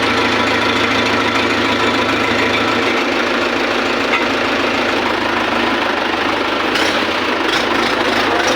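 Mahindra 585 DI tractor's diesel engine idling steadily, run with its silencer and air cleaner removed.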